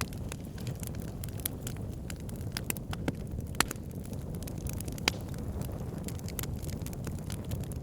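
Wood fire burning in a fireplace: a steady low rumble of flames with frequent sharp crackles and pops, the loudest about three and a half and five seconds in.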